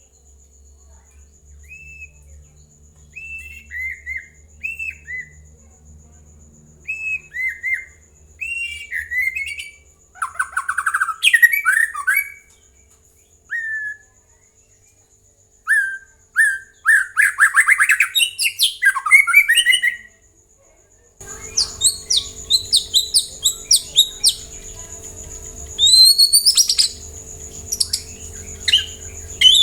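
White-rumped shama (murai batu) singing: varied whistled phrases with short pauses between them. About two-thirds of the way through, a steady background hum comes in and the notes turn quicker and higher.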